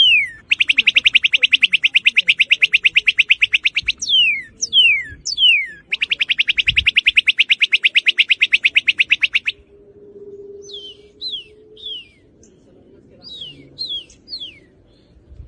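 Northern cardinal singing: sharp down-slurred whistles, then a long, rapid trill of repeated notes lasting about three and a half seconds, more slurred whistles, a second trill of the same length, and softer down-slurred notes toward the end.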